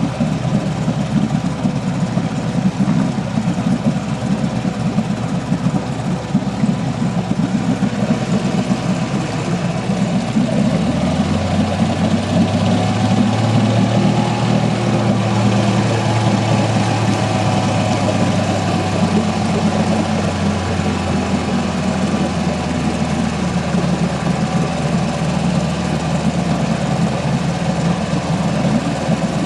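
Boat motor running steadily. Its low hum grows stronger about a third of the way in and eases back about ten seconds later.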